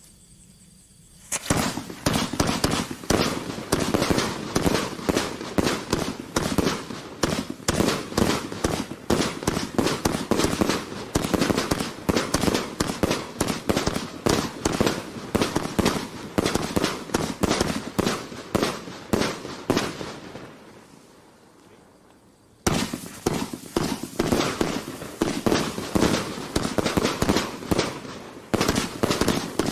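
Vivid Pyrotechnics 'Ziegelstein' firework barrage firing a rapid, continuous stream of shots and bangs, starting about a second and a half in. It dies away to near quiet around 20 seconds in, then starts again abruptly a couple of seconds later with another run of rapid shots.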